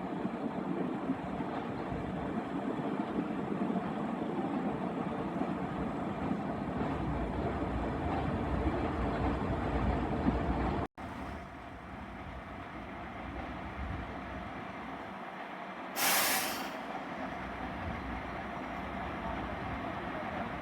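A train rumbling steadily at the station, then after an abrupt cut a quieter background and, about three-quarters of the way through, one short loud hiss of air, typical of a train's air brakes.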